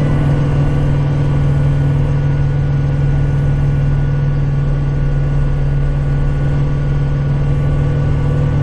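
Kubota tractor's diesel engine running steadily at a constant pitch, a low even drone with no change in speed.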